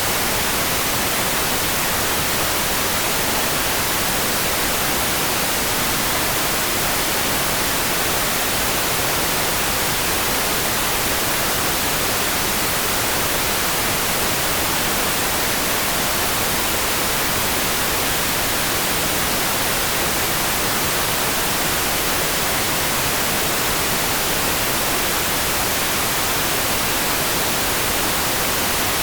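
Steady, even hiss of rain, like white noise, with no single drops, thunder or changes standing out.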